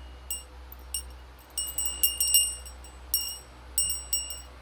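A small metal bell rung over and over as an eclectus parrot plays with it: irregular bursts of bright clinks and rings, some single strikes and some quick clusters.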